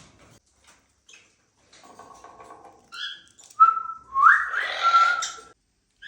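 Indian ringneck parrot giving short chirps and soft chatter, then a loud, harsh whistling call about three and a half seconds in that lasts nearly two seconds.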